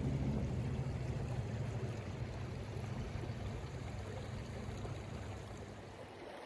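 Steady rushing noise of flowing water, easing off slightly near the end.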